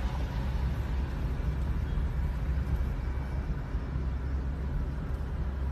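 Steady low rumble of a moving car: engine and road noise, with no sudden impact.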